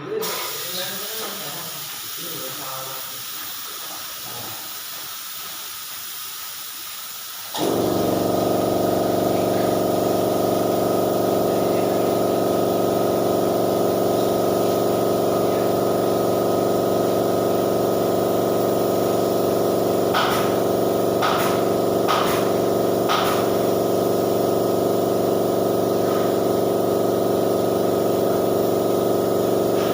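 Compressed air hissing, as from a paint spray gun, then about a quarter of the way in an air compressor's motor starts suddenly and runs steadily at a constant pitch, with a few short clicks around two-thirds of the way through.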